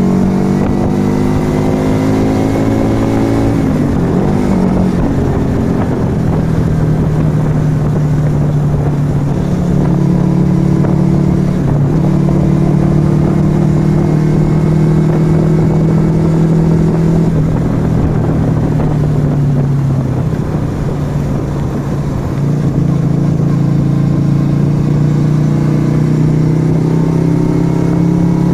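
Yamaha XV125 Virago's small air-cooled V-twin running through a Turbo Kit aftermarket exhaust while under way. The engine pulls up through the revs for the first few seconds, breaks off about four seconds in as if for a gear change, then holds a steady cruise. It drops back for a few seconds past the middle and picks up again toward the end, with wind rush throughout.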